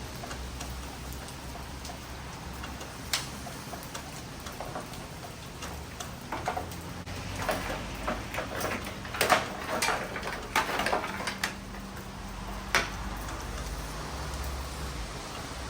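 Rain falling, with sharp drops and splatters landing on a hard surface, thickest in the middle, over a faint low hum.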